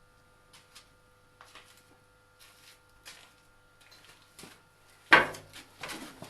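Hand tools being handled: faint scattered clicks and rustles, then a sudden loud metallic clank about five seconds in, followed by clattering.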